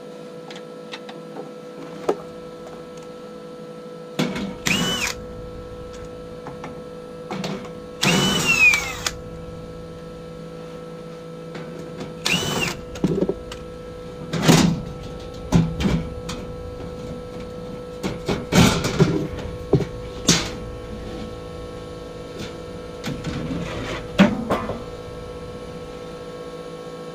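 A steady hum runs throughout, with scattered knocks, clatter and a few short squeaks from hands and tools working on a heat pump unit.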